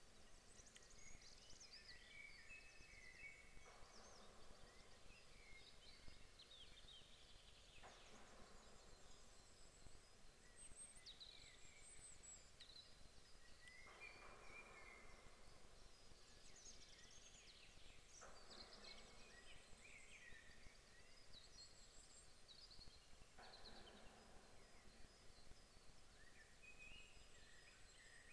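Faint songbirds chirping and trilling in high, quick phrases, several at once, over a faint hiss that swells and fades every few seconds.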